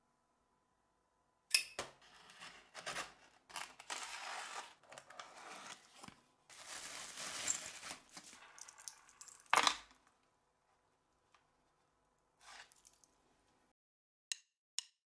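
A parcel wrapped in brown paper and packing tape being torn open and a watch unwrapped from bubble wrap: irregular tearing, crinkling and rustling, ending in one sharp knock a little past halfway. A few faint rustles and clicks follow.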